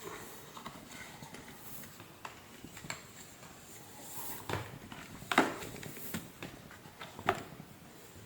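Scattered clicks and knocks of hard parts being handled, as in working on an appliance on a bench. The loudest knock comes about five and a half seconds in, with another sharp one near seven seconds.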